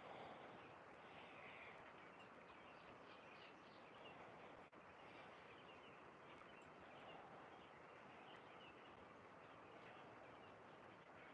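Near silence: faint outdoor background with a light, even hiss.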